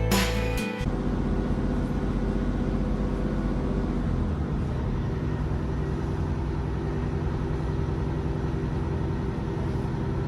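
Steady low rumble and drone of a Northern Class 150 diesel multiple unit train running along the line. The tail of acoustic guitar music cuts off under a second in.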